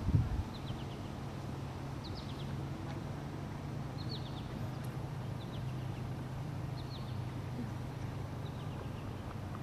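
Small bird chirping: short clusters of three or four quick, high, falling notes, repeated every second or two. Underneath runs a steady low hum, with a brief low rumble at the very start.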